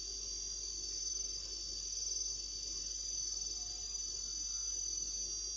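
Crickets chirping in a steady high-pitched chorus.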